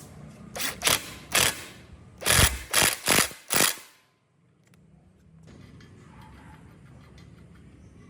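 A series of about seven short, loud mechanical noises in quick succession, with a sudden drop to near silence after them, then a low steady background.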